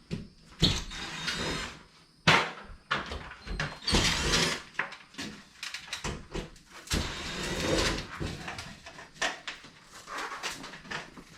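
Several bursts of scraping and clattering, with scattered sharp knocks, from hands-on work at a gas furnace being installed.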